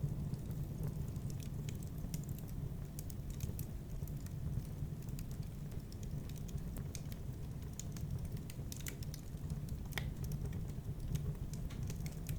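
Wood fire burning in a fireplace: irregular crackles and pops over a steady low rumble, with one sharper pop about ten seconds in.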